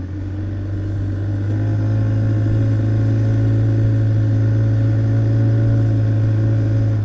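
Boat engine running steadily at speed, a loud low drone that grows louder over the first couple of seconds and then drops away abruptly at the very end.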